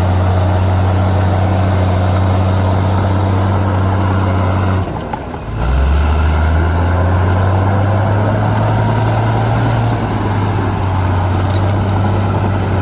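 Heavy diesel engine of earthmoving machinery running steadily. About five seconds in the sound dips for under a second, then the engine comes back at a lower pitch and rises as it picks up speed, running steadily again to the end.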